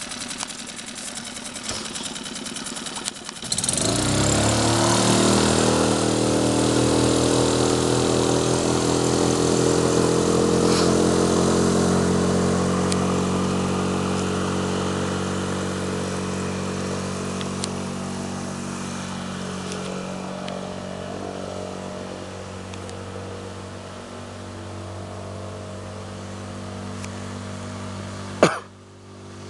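Suzuki DF6 four-stroke outboard motor idling with a light clatter, then throttled up about three and a half seconds in and running at a steady speed, slowly easing off. A sharp knock comes near the end.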